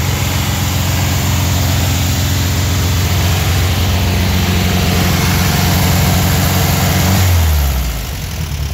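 1969 VW Beetle's air-cooled flat-four engine running at a raised fast idle on the carburettor choke's fast-idle step while warming up. About seven seconds in, a touch on the accelerator releases the choke step and the revs fall to a normal idle.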